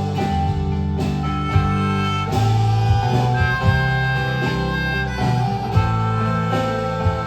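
Live band playing an instrumental break between sung lines: strummed guitar, bass and drum beats under a lead instrument holding long melody notes.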